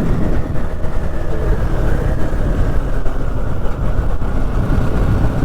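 Motorcycle under way, its engine running beneath a steady rush of wind and road noise on the mounted camera's microphone.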